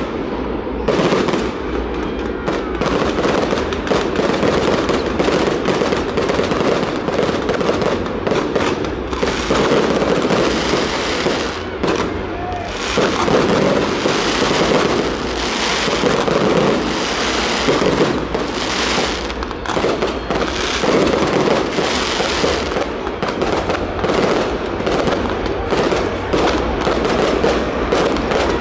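Fireworks display going off without a break: a dense, continuous run of bangs and crackling firecrackers.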